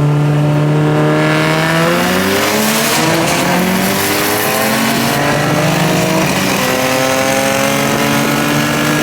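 Performance car engines accelerating hard, their pitch climbing with several engine notes overlapping. The pitch drops at a gear change about two-thirds of the way through, then holds steadier.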